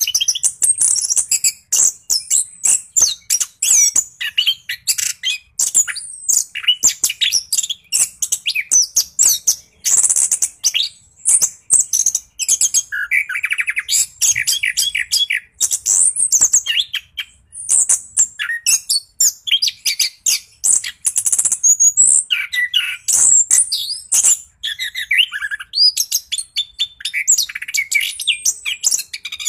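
Chestnut-capped thrush singing a fast, unbroken, varied song of high chirps, trills and whistles with hardly a pause.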